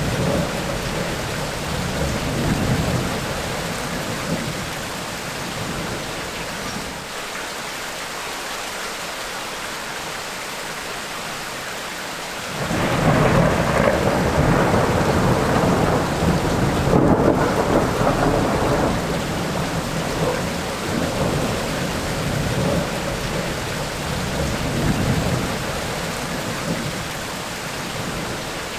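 Tropical rainstorm: steady rain with thunder, low rumbles in the first few seconds and a louder peal breaking about halfway through that rolls on for several seconds before fading.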